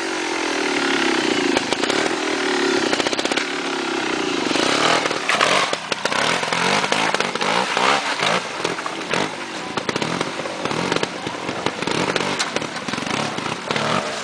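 Trials motorcycle engine revving up and down as it climbs over loose stones. After about five seconds the steady pitch breaks up into a run of sharp, rapid clatters over the engine.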